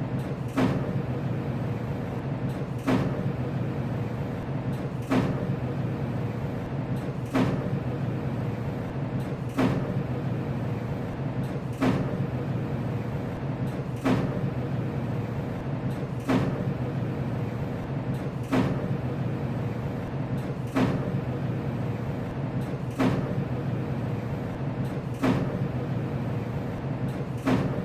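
HVAC unit running with a steady low hum and a faint whine, punctuated by a sharp knock that repeats evenly about every two seconds.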